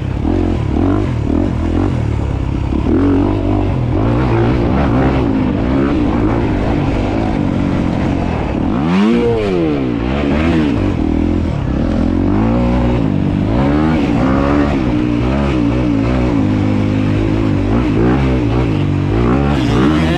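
Dirt bike engine revving up and down as it is ridden, the pitch rising and falling with the throttle and a deep dip and climb in pitch about nine seconds in.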